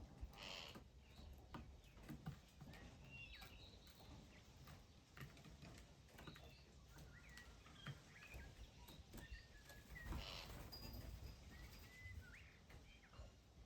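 Faint, scattered chirps and short calls from small wild birds, with light ticks and two brief rustling bursts, one about half a second in and one about ten seconds in.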